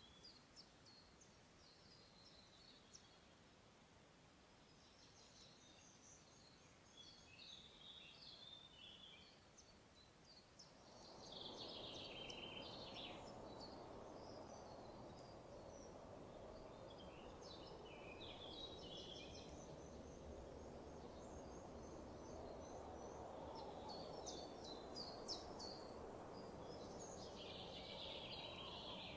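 Faint forest birdsong: scattered short chirps and trills from several birds. A low steady rushing noise comes in about eleven seconds in and carries on under the calls.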